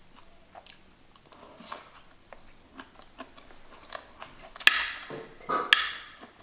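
Close-up chewing of a person eating rice and vegetable stir-fry, with scattered small clicks and two louder smacks near the end.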